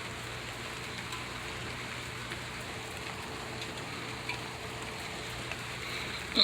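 Rain falling steadily outdoors, an even hiss with a few faint drips.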